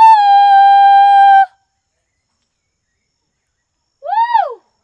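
A woman's voice holding one high, steady sung note for about a second and a half. After a pause comes a short vocal call that swoops up and back down.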